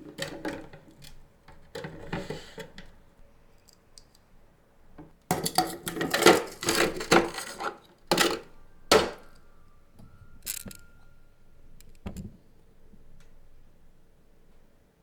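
Kitchenware being handled: dishes and utensils clinking and knocking, with a dense run of clatter around the middle and a faint brief ring after it.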